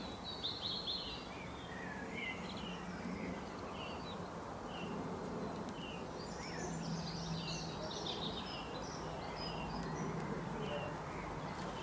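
Several songbirds chirping and twittering in short, repeated notes, over a steady low hum and background noise.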